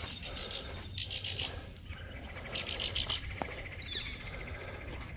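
Birdsong: a few short bursts of rapid, evenly repeated high notes, trilled two or three times.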